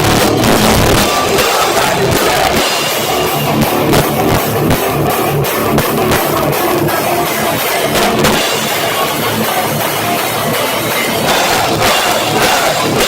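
Live heavy rock band playing loud, with pounding drums and electric guitar, picked up by a cheap cell-phone microphone so the sound is harsh and distorted.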